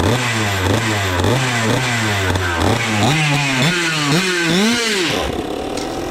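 Small single-cylinder vintage racing kart engine revving in repeated blips that climb higher each time, then dropping off about five seconds in.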